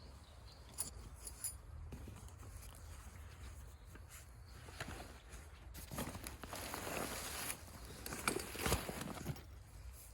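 Rustling with scattered light knocks and clicks, a longer rustle about six seconds in, and a few sharper clicks after it.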